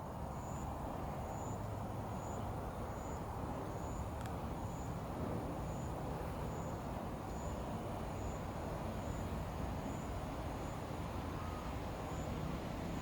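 Steady low background rumble like distant road traffic, with a faint high-pitched chirp repeating a little more than once a second.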